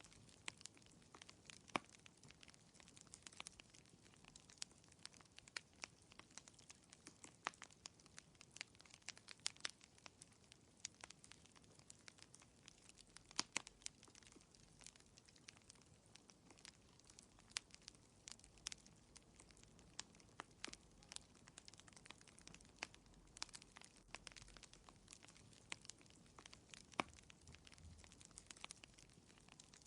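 Wood fire crackling in a fireplace: quiet, irregular sharp pops and snaps, several a second, over a faint steady hiss.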